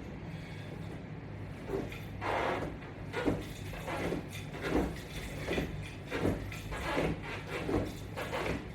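Repetitions of a sit-up or crunch exercise: a short burst of movement or breath about every three-quarters of a second, over a steady low hum.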